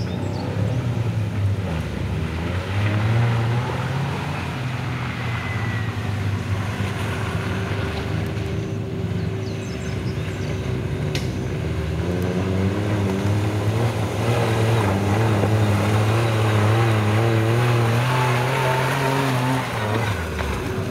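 Suzuki Jimny engine running under changing throttle on an off-road trial course, its pitch rising and falling, wavering more often in the second half.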